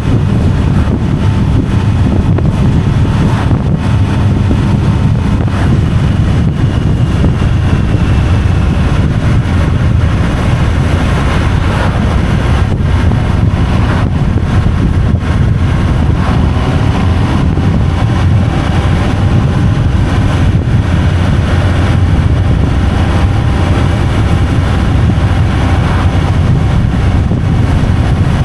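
Steady road and wind noise from a vehicle moving at speed: a loud, even low rumble with a faint wavering whine above it.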